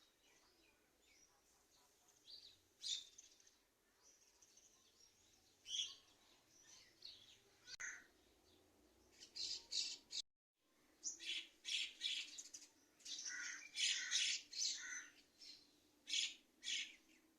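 Several kinds of small birds chirping: short, high calls, scattered at first and coming thick and fast in the second half, with a very brief cut to silence just past the middle.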